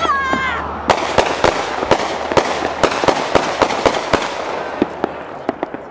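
Consumer fireworks going off: a hissing spray with a fast run of sharp pops, about four a second, that grows fainter near the end.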